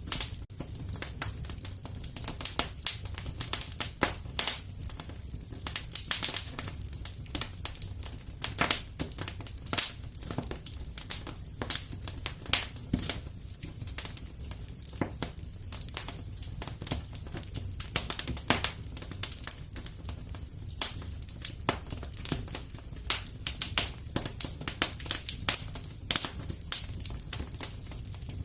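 Wood fire burning in a fireplace: frequent irregular crackles and pops over a low steady rumble of the flames.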